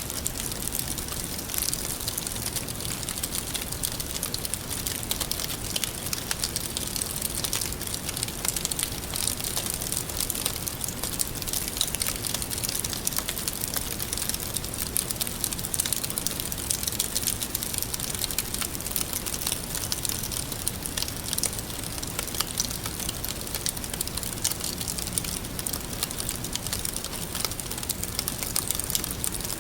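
Campfire crackling steadily: a dense run of small pops and snaps over a continuous hiss.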